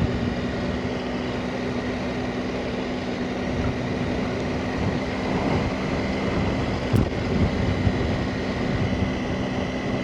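Motorcycle engine running steadily while riding, with wind noise rushing over the microphone. A brief sharp click about seven seconds in.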